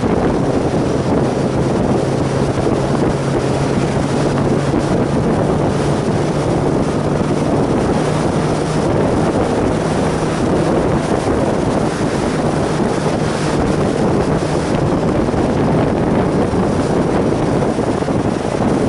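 Motorcycle riding at a steady speed: heavy wind noise rushing over the camera's microphone, with a steady engine hum underneath.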